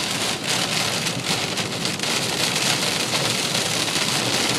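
Heavy rain pelting a car's roof and windshield in a thunderstorm, heard from inside the car: a steady, dense patter.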